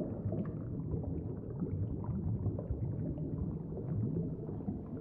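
Low, steady rumbling underwater ambience from the sound track, with no clear individual events.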